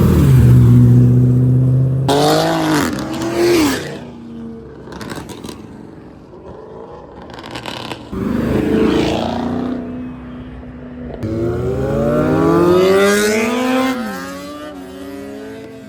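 Modified car engines revving and accelerating hard, several pulls whose pitch rises and then drops away, the longest in the second half.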